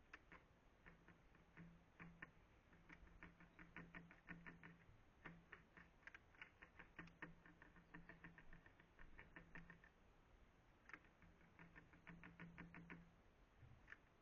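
Varied tit pecking, rapid light taps in runs of several a second with short pauses between runs. A faint low hum comes and goes under the tapping.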